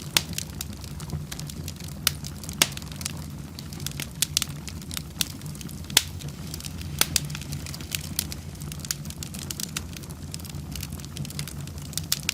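Fire burning in a fireplace, crackling with frequent irregular sharp pops over a steady low rumble of flame.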